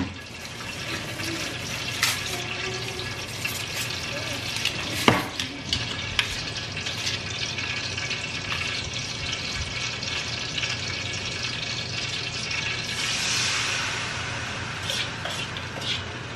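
Yellow rice and mixed vegetables sizzling in a pot as they are stirred, with a few sharp knocks of a utensil against the pot, the loudest about five seconds in. The sizzle swells briefly near the end.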